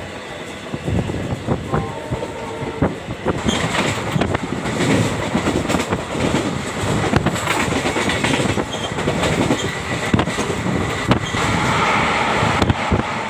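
Passenger train running along the track, heard from the coach doorway: steady rumble with wheels clattering over the rail joints. The noise grows louder about three and a half seconds in.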